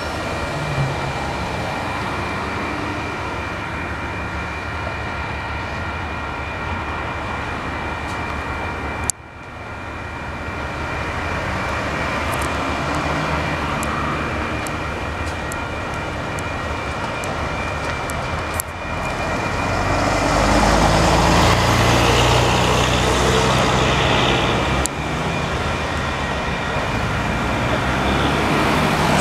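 A diesel-electric train passes over a road level crossing while the crossing's warning bells ring steadily. A DJ class diesel locomotive's engine goes by first. From about two-thirds of the way in, the louder rumble and hiss of the passenger carriages' wheels on the rails takes over.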